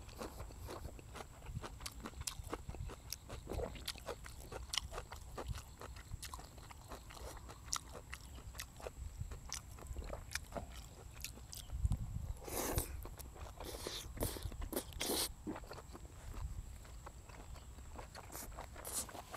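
Close-up mukbang eating sounds: a man chewing and biting food, with wet mouth smacks and crunching bites. A few louder bites stand out about twelve and a half and fifteen seconds in.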